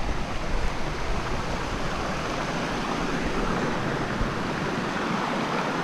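Steady rushing water of a creek and small waterfall, with some low rumble in the first couple of seconds.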